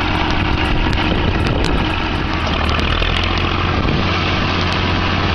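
Tractor engine running steadily, just after starting.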